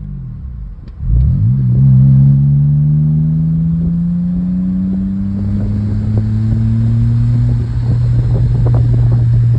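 BMW E39's engine pulling hard under acceleration, heard from inside the cabin with the windows down. The engine note surges in about a second in, climbs steadily in pitch for several seconds, then holds steady near the end.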